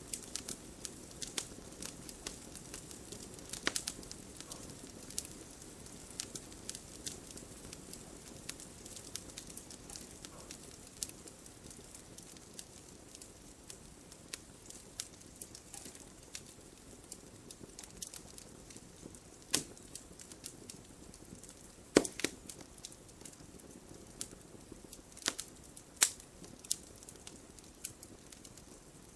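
Wood campfire crackling: a steady run of small snaps over a soft low hiss, with a few louder sharp pops scattered through, the sharpest about two-thirds of the way in.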